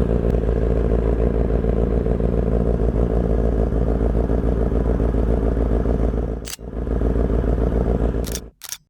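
Benelli 600 GT's inline-four engine idling steadily while it warms up. It breaks briefly about six and a half seconds in and cuts off suddenly near the end.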